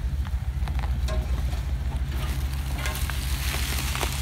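Jeep Wrangler engine idling close by, a steady low rumble, with light rustling and crunching of dry leaves underfoot.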